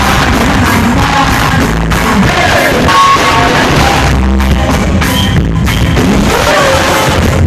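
Live reggae band playing with a singer: a heavy bass line under vocals and instruments, loud and unbroken.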